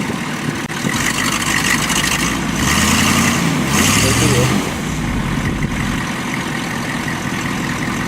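Jeep's original six-cylinder engine running while driving, revving up for a couple of seconds near the middle and then settling back, under a steady hiss.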